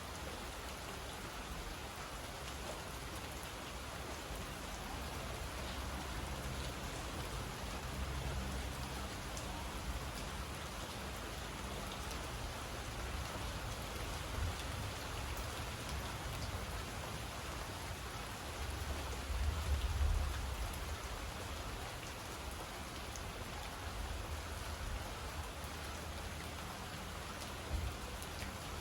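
Steady rainfall, an even hiss of drops with no let-up. Low rumbles of thunder swell under it now and then, the strongest about two-thirds of the way in.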